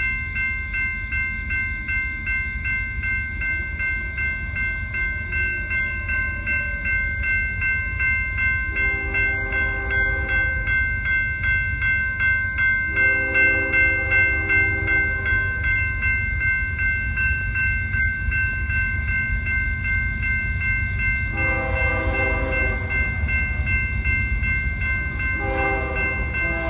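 A train rumbling through a grade crossing while the crossing bell rings steadily. Over it the locomotive's horn sounds four multi-note blasts, the first two long.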